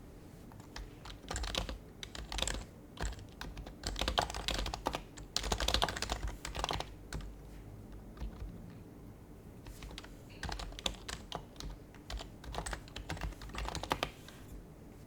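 Typing on an HHKB Professional HYBRID Type-S keyboard: quick runs of soft keystrokes, with a short pause about halfway through before typing resumes.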